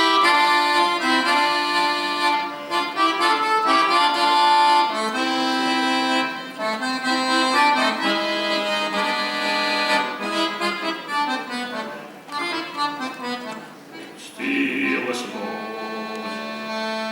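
Accordion playing an instrumental passage of a song, with held chords and a melody line over them. It softens for a moment a little past the middle.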